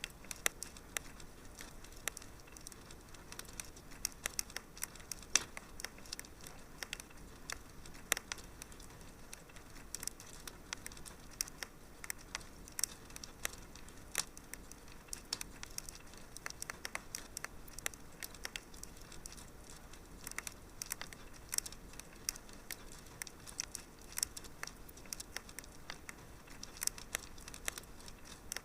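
Wood fire burning in a fireplace, crackling and popping with many small irregular snaps over a soft steady hiss.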